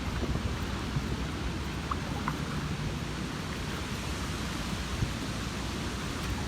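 Steady hurricane wind and rain noise, with a low rumble of wind buffeting the microphone.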